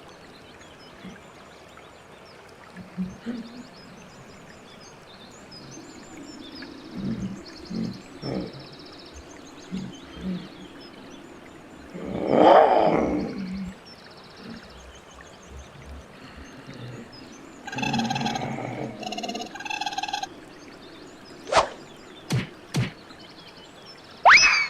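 Outdoor animal sounds: short high bird trills repeating throughout, a loud drawn-out animal call about halfway through, a second call a few seconds later, a few sharp clicks, and a swooping chirp near the end.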